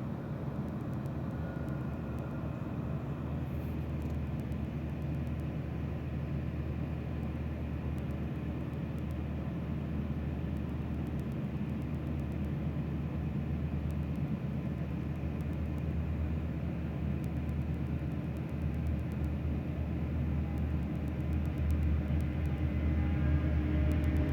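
Diesel freight locomotives running: a steady low engine drone with a deep layered hum, slowly growing louder toward the end as they draw nearer.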